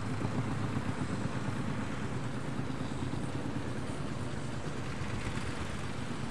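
An engine running steadily, giving a low, even hum.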